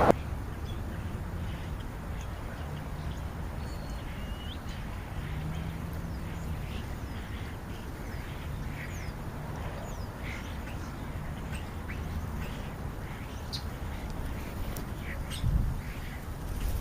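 Birds calling at a feeding spot: scattered short chirps and whistles over a steady low rumble.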